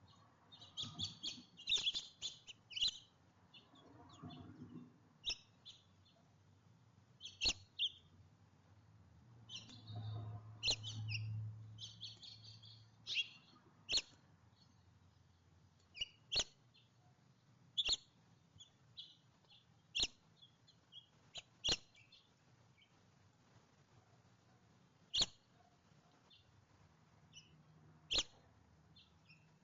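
Small songbirds chirping: quick clusters of high chirps in the first few seconds and again around ten seconds in, then single sharp chirps every two seconds or so. A faint low hum comes in briefly around ten seconds in.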